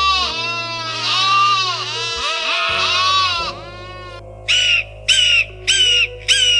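Animal calls over steady background music: a rapid string of short, arching, bleat-like cries, then after a brief pause a bird's short harsh calls repeating about twice a second.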